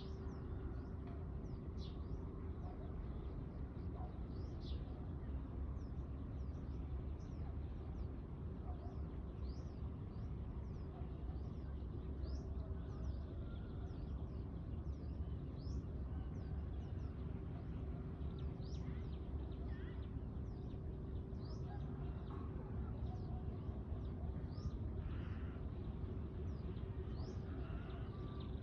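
Birds chirping in many short, high, falling notes, one after another throughout, over a steady low background rumble.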